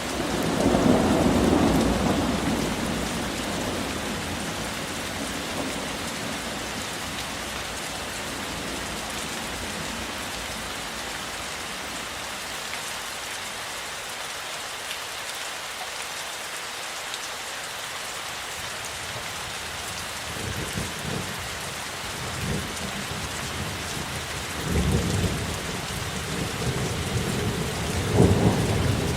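Steady rain hiss through a thunderstorm. A roll of thunder swells at the start and fades over several seconds. Low thunder rumbles return about twenty seconds in and grow louder near the end.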